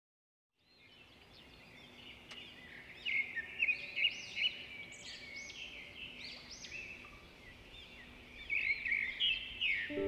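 Birds chirping and singing in quick, repeated arching notes, fading in from silence at the start and growing louder, with busier bursts of calls a few seconds in and again near the end.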